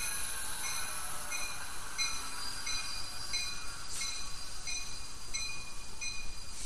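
Passenger train rolling slowly past, with a bell ringing steadily about one and a half strikes a second. There is a sharp clank about four seconds in and another near the end.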